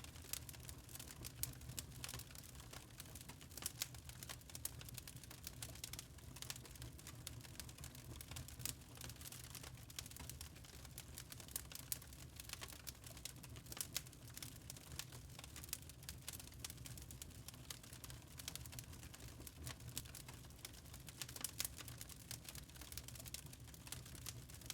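Log fire crackling in a fireplace: irregular sharp snaps and pops of burning wood over a steady low rumble.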